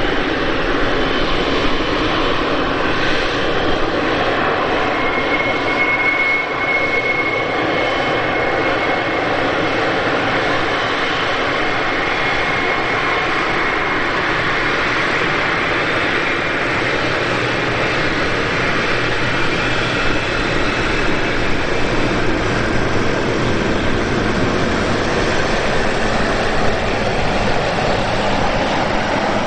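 Boeing 777 freighter's GE90 jet engines running steadily, a continuous loud rushing noise with faint whining tones in the first seconds.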